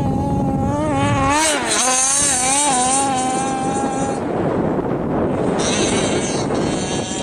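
Engine of a Baja off-road car running hard, its pitch rising and falling as the throttle is worked. About four seconds in the engine note gives way to a loud, steady rushing noise.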